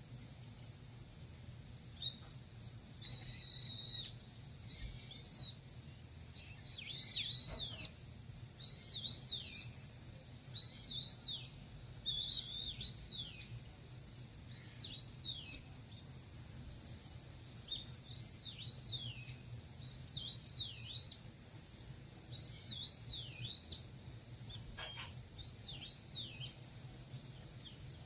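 Nature soundscape: a steady, high-pitched insect drone with a bird repeatedly giving short arched, down-slurred chirps, often two or three in quick succession.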